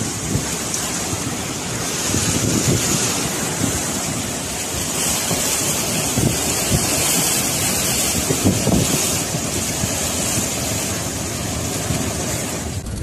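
Storm wind with hurricane-force gusts buffeting the microphone over a steady rushing hiss. The sound changes abruptly just before the end.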